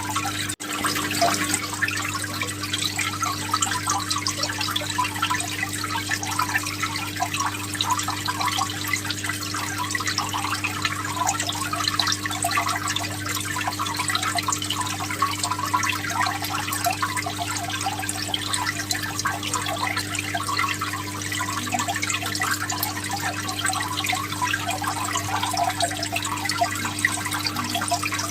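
Aquarium water splashing and bubbling steadily, with a constant low hum from the tank's pump running underneath. The sound drops out briefly about half a second in.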